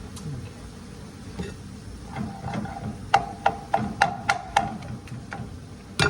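Metal cookware and pot lids clattering as they are moved about in search of a lid: scattered knocks, then a quick run of about six sharp clanks with a brief ring about three seconds in, and a louder knock near the end.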